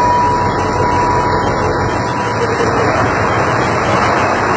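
Passenger train coaches rolling past along the platform: a loud, steady rumble of wheels on the rails. A faint thin high tone fades out about a second in.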